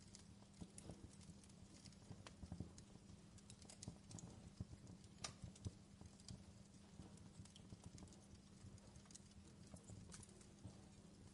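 Faint crackling of a wood fire in a fireplace: irregular small snaps and pops, a few sharper ones standing out, over a low steady hum.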